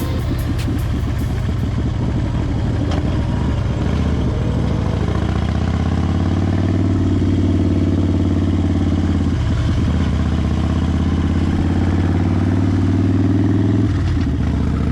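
Harley-Davidson Fat Bob's V-twin engine running under way. Its pitch rises as it accelerates a few seconds in, then holds steady, with a brief dip about two-thirds of the way through and a drop off the throttle near the end.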